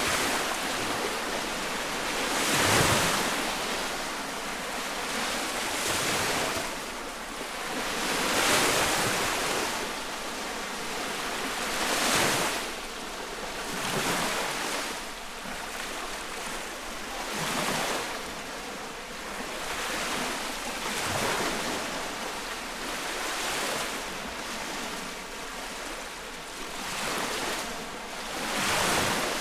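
Small lake waves washing onto the shore close by, each one swelling to a hissing splash every few seconds over a steady wash of water.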